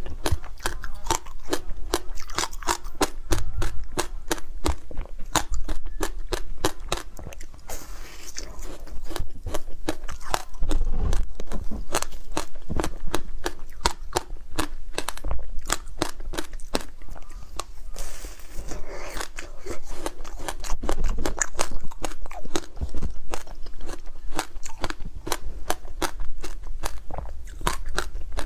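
Frozen passion fruit ice being bitten and chewed close to the microphone: a dense run of crisp, irregular crunching cracks.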